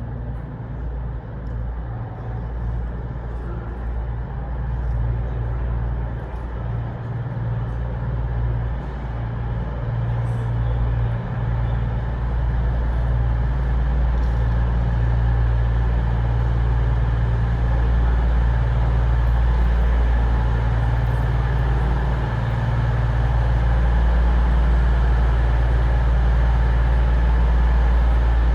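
Diesel engines of a Class 222 Meridian diesel multiple unit running with a steady low hum, growing gradually louder.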